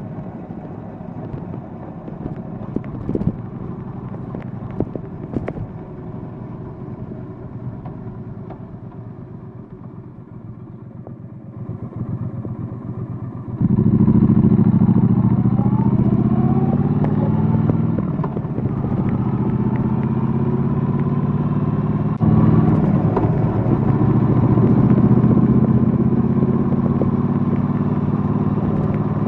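Triumph Bonneville Bobber's parallel-twin engine running under way, fairly quiet for the first half. About halfway in it turns much louder, with the pitch rising as it accelerates. There is a brief dip and another step up about two-thirds of the way through.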